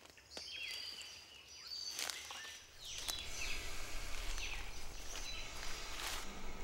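Birds calling among trees: repeated short calls that slide downward in pitch, with a few sharp clicks and a steady low background noise from about three seconds in.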